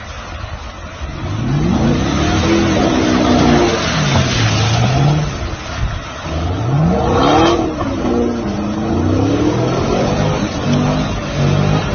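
Chevrolet Camaro engine revving hard and falling back in two long swells as the car is spun through seawater, with a short rush of hiss about seven seconds in, then quick repeated blips of the throttle near the end.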